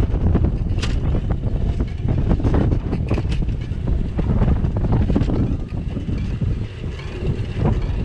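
Wind rumbling on a GoPro's microphone during a bicycle ride, with frequent sharp rattles and knocks from the bike.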